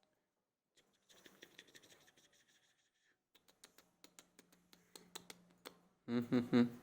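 Faint, irregular scratching and small clicks. A voice calls out loudly near the end.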